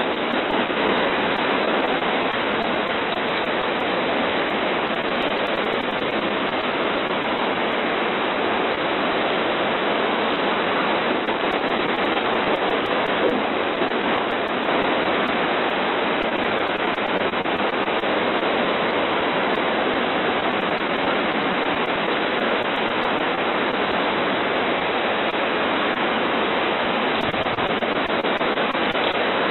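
Hurricane rain and wind, a steady even rushing noise, picked up through a front-door security camera's microphone with the highs cut off.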